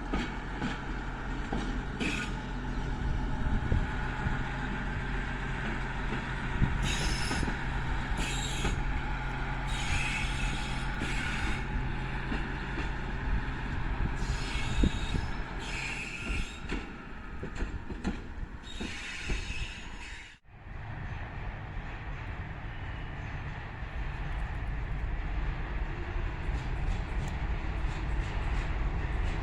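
PKP Cargo freight train on a siding: the locomotive's engine runs steadily while the wheels squeal and screech in repeated short bursts. Partway through the sound cuts out briefly, then steady rolling train noise builds toward the end.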